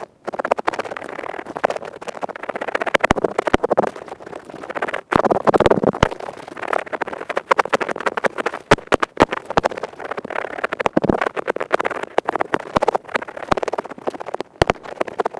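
Earpick scraping rapidly inside an ear canal: a fast, dense run of scratchy strokes and sharp clicks, with brief pauses about 5 s in and near the end.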